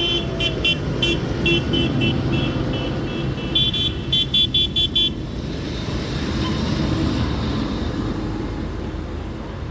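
A horn beeping in a rapid string of short toots for about five seconds, then stopping. Under it runs the steady low rumble of tractor engines.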